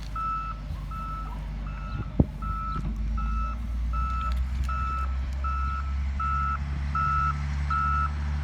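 A truck's reversing alarm beeping steadily at one pitch, about one and a half beeps a second, over the low rumble of its engine. A single sharp knock comes about two seconds in.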